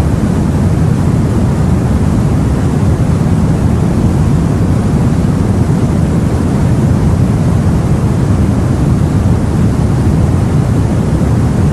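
Steady low rumble of wind and sea, as heard aboard a boat, with no separate wave breaks or other events standing out.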